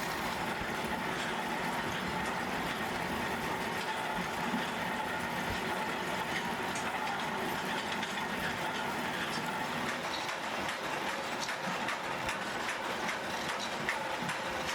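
Steady workshop machinery noise, an even drone with scattered small clicks.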